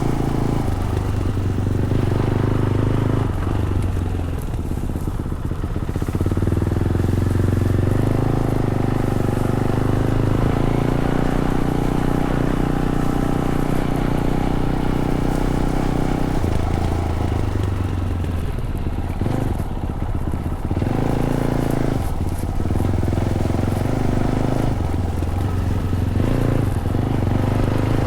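Fantic Caballero 500's single-cylinder engine running under way through its stock Arrow exhaust, mostly at a steady throttle. The throttle eases off twice, about four seconds in and again from about sixteen to twenty-one seconds, and the engine note drops each time.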